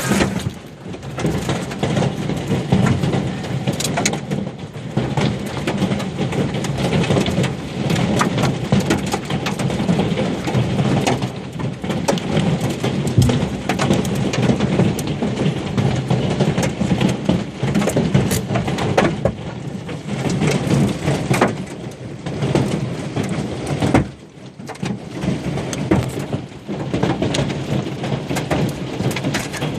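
Hail pelting down in a heavy storm: a dense, loud clatter of hailstones striking surfaces. It eases briefly about three-quarters of the way through, then picks up again.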